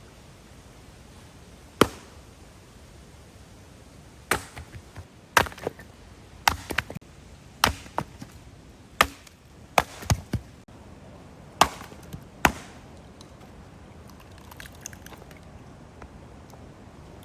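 A blade chopping in sharp, irregular strokes, about a dozen of them, some in quick pairs, stopping about two-thirds of the way through.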